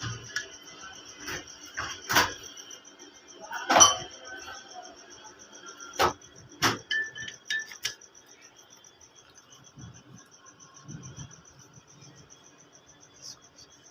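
About ten sharp metallic clinks and knocks, as of tools and metal parts being handled, mostly in the first eight seconds, the loudest about four seconds in. Crickets chirp steadily throughout.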